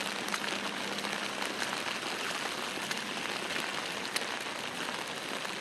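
Steady moderate rain falling, an even hiss with scattered sharp drop ticks.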